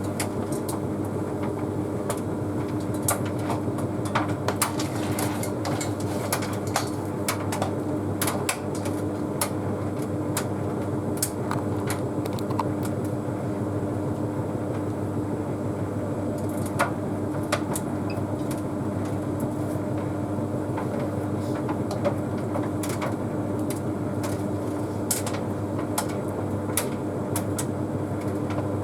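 Bosch Series 6 WQG245R9GB heat pump tumble dryer running early in an Easy Care cycle: a steady hum with a constant low tone as the drum turns, and irregular light clicks and taps throughout.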